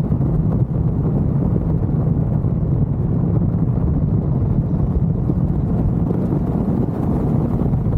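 Ford Mustang GT's V8 with aftermarket headers and exhaust, running at a steady pace with a constant low exhaust rumble and no revving.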